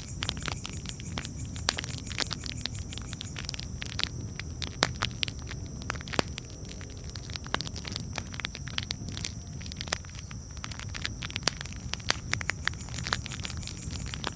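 Campfire crackling: a dense, irregular run of sharp pops and snaps over a steady low rumble of burning.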